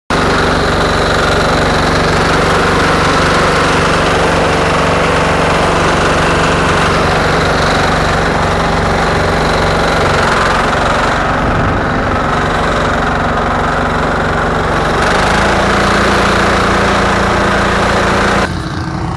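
Garden tractor engine running loud and steady, its note shifting about eleven and fifteen seconds in, then dropping off near the end.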